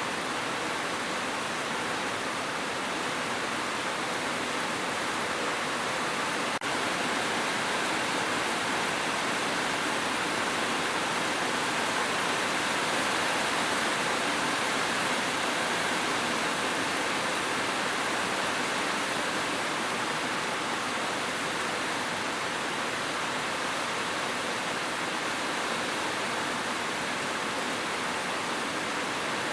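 Steady, even rain, a dense hiss with no single drops standing out. A brief click about six and a half seconds in.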